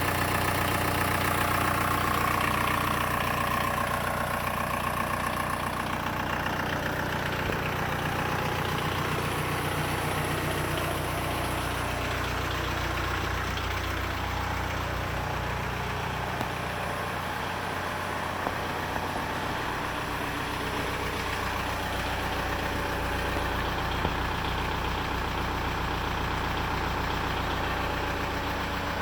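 A 2001 Volkswagen Beetle's 1.9-litre TDI diesel engine running at a steady idle, with a few faint clicks.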